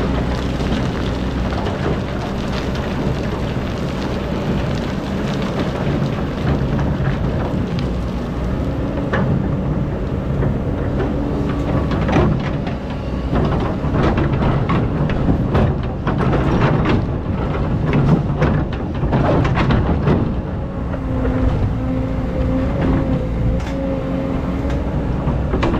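Excavator's diesel engine running steadily under load, with a hydraulic whine that comes and goes. Through the middle of the stretch come irregular knocks and crackling clatter as the bucket works the sand.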